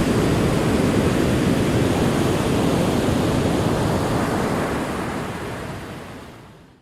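Ocean waves rolling on a shore, a continuous deep rush of surf, fading out to silence over the last two seconds.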